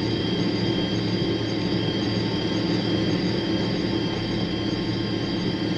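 John Deere self-propelled forage harvester running steadily, heard from inside its cab: an even low engine drone with a steady high-pitched whine over it.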